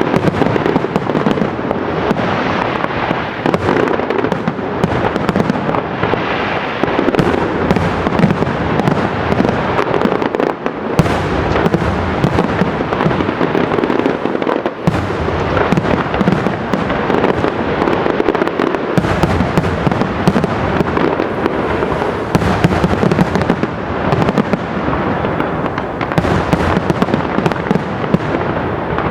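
Professional fireworks display: shells and salutes bursting in a dense, unbroken barrage of bangs and crackle.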